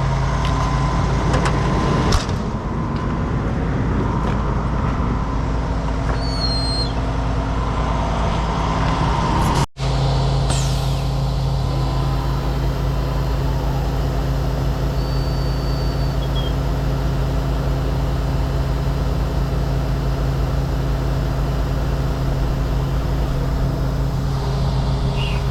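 Heavy truck diesel engine running steadily at a constant speed, with a short sharp burst about two seconds in and a brief gap in the sound near ten seconds.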